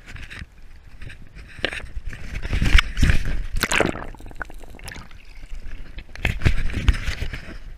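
Water sloshing and splashing around a kayak, with irregular knocks and handling noise; loudest about three seconds in and again near seven seconds.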